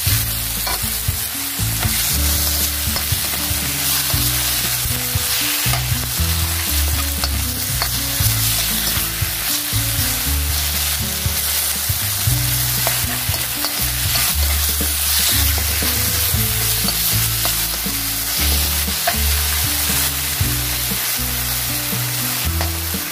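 Chicken strips sizzling in hot oil in a wok as they are stir-fried over medium heat, with scattered clicks and scrapes of the utensil against the wok. Background music plays low underneath.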